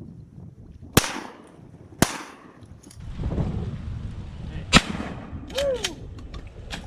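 Three shotgun shots, the first two about a second apart and the third nearly three seconds later, each with a short ringing tail, over wind buffeting the microphone.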